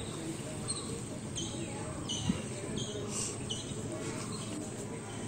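A small bird chirping: a string of short, high, falling chirps, about one every three-quarters of a second, from about a second and a half to three and a half seconds in, over a steady low background hum.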